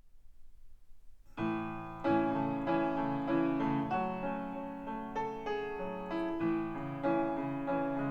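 Solo piano music played back through hi-fi loudspeakers and picked up in the room: after a faint low hum, the piano comes in about a second and a half in with slow chords and single notes that ring and fade.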